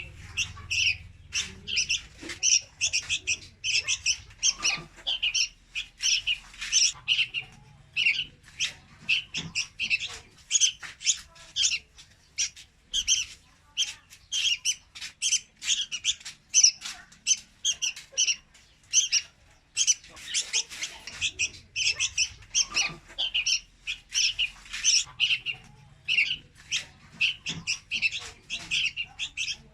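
Young red-whiskered bulbuls calling: an unbroken run of short, high chirps, a few a second.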